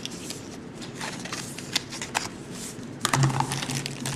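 Rustling and light clicks of a phone's box packaging being handled, getting louder about three seconds in.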